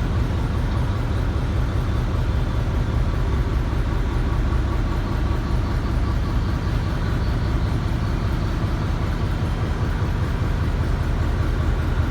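Ship's engine-room machinery running steadily: a loud, constant low drone with no change in pace.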